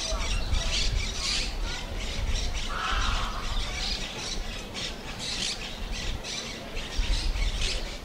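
Birds squawking in many short, harsh calls, with one lower, longer call about three seconds in, over a steady low rumble.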